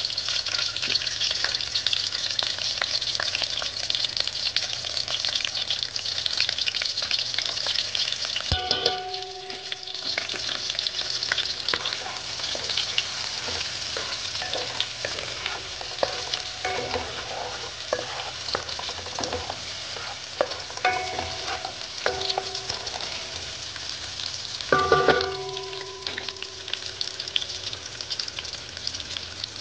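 Onion and bell pepper pieces sizzling in hot coconut oil in a metal pot: a steady crackling hiss. Two sharp knocks ring out briefly, about nine seconds in and near the end, with a few lighter ringing clicks between them.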